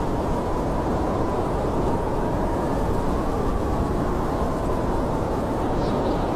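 Blizzard wind blowing steadily, a deep rushing noise with a thin whistling howl that wavers slightly in pitch.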